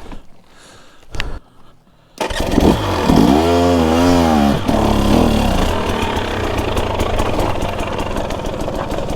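Dirt bike engine catching about two seconds in, revved up and down briefly, then running steadily.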